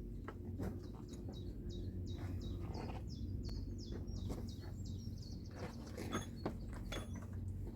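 A small bird singing a rapid run of short chirps that sweep down in pitch, over a low steady hum, with a few light knocks in between.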